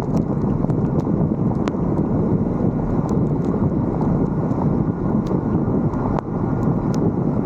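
Wind buffeting the microphone of a roof-mounted 360° camera: a loud, steady, dense rumble, with scattered faint ticks.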